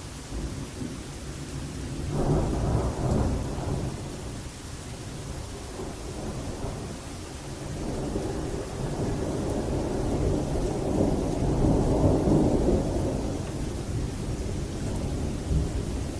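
Thunder rumbling over steady rain during a night thunderstorm: one rumble breaks in about two seconds in, and a second, longer one swells and fades over the second half.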